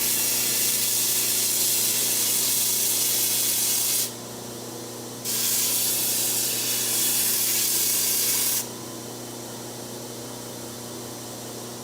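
Belt grinder running with a chisel pressed against its slack belt to blend the handle in: a steady sanding hiss over the motor's hum. The hiss drops out about four seconds in, comes back a second later, and drops out again after about eight and a half seconds, leaving the grinder's hum.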